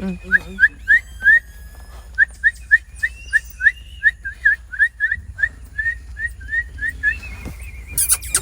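A quick run of short whistled chirps, each one rising in pitch, about three a second, stopping about seven seconds in.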